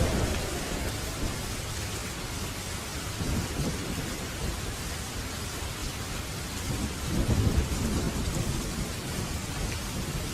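Steady rain hiss with rolling thunder. A sudden thunderclap comes right at the start, a low rumble about three seconds in, and a louder, longer roll about seven to eight seconds in.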